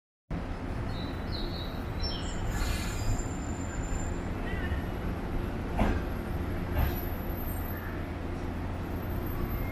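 Shinano Railway SR1-series electric train running on the rails: a steady low rumble, with a few brief high squeaks early on and two louder knocks about a second apart around the middle.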